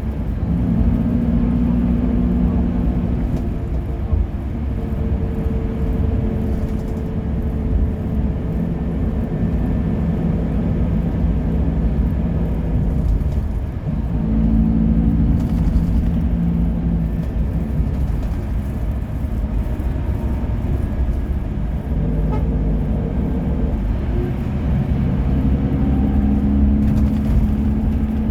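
A motor vehicle's engine and road rumble while driving. The engine note steps up and down several times, as with changes of speed or gear.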